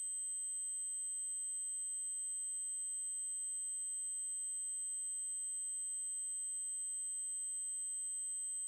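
Synthetic 8192 Hz triangle-wave tone: a continuous, very high-pitched electronic whine held at one unchanging pitch and level.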